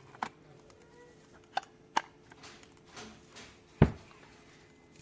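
Parts of a car starter motor and hand tools handled on a workbench: a few sharp clinks and knocks, the loudest near the end, with a couple of brief scrapes in between.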